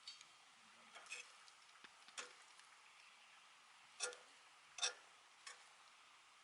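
A few scattered light clicks and knocks, about seven of them, the loudest two a little after four seconds in and near five seconds in, over a quiet background.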